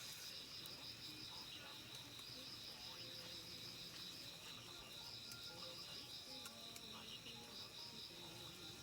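Faint, steady insect trilling: a high, fast-pulsing chorus that breaks off briefly once or twice.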